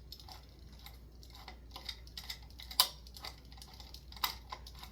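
Irregular small clicks and taps of hands handling fan light-kit parts and hardware, with a sharper click about three seconds in and another near the end.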